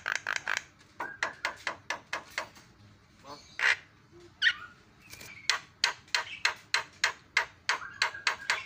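Javan myna singing: fast runs of short, harsh clicking notes, about six or seven a second, broken near the middle by two louder single calls.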